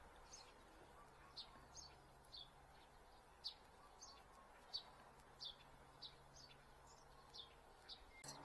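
Near silence, with a small bird chirping faintly: short, high, downward-sweeping chirps, about one or two a second.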